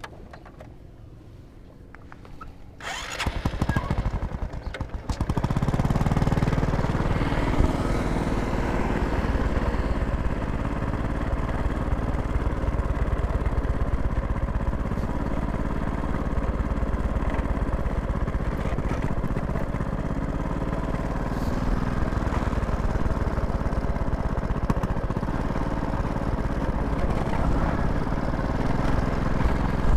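An engine starts up about three seconds in, runs unevenly for a couple of seconds, then keeps running steadily.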